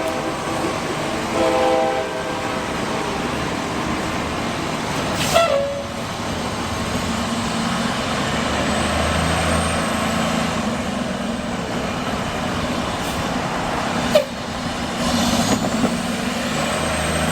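Freight train's horn blast ending about two seconds in, then the diesel locomotive and train running steadily past with a loud, even roar and a low engine drone. Two sharp knocks stand out, about five and fourteen seconds in.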